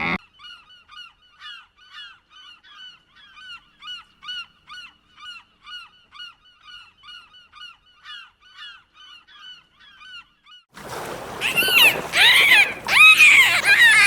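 A long run of soft, evenly repeated short chirps, about three a second. About eleven seconds in, loud honking bird calls break in and carry on to the end.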